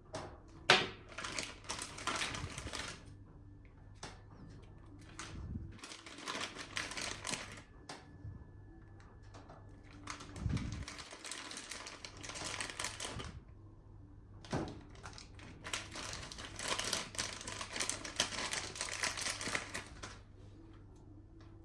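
Rapid, dense clicking and rattling in four bursts of about two to five seconds each, with quieter gaps between them.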